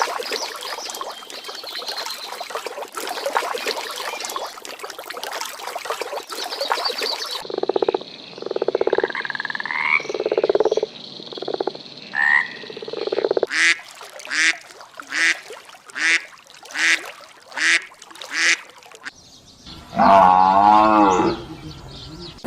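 Frogs croaking: at first a dense chorus of rapid rattling calls, then separate calls, then a run of regular croaks about two a second, ending with a longer, wavering pitched call.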